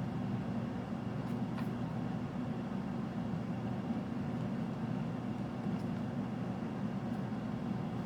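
Steady low background hum with no speech, and a faint tick about a second and a half in.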